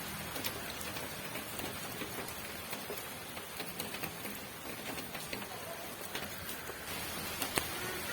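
Steady rain: a continuous hiss with many separate drops ticking on a surface, and one louder drop hit about seven and a half seconds in.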